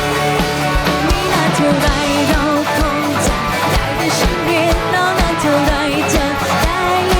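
Pop-rock band playing a song: a steady drum beat and guitars, with a melody line gliding over them.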